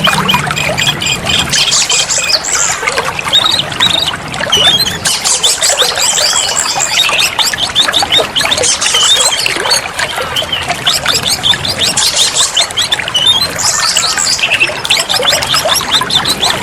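Oriental magpie-robin (kacer) singing continuously, a rapid run of chirps, trills and whistles, over a steady hiss like running water.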